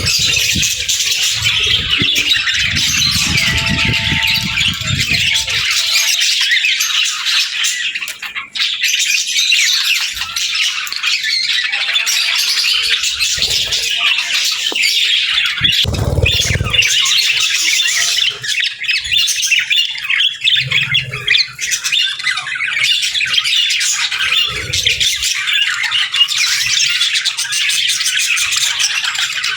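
A flock of budgerigars chattering nonstop, a dense stream of warbles, chirps and squawks. A low rumble runs under it for the first few seconds and comes again briefly about halfway through.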